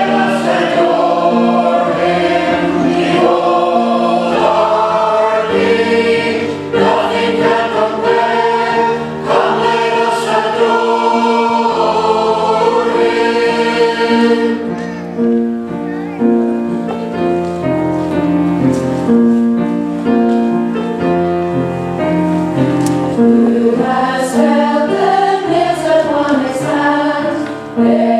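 Church choir singing the introit, several voice parts moving together through held chords.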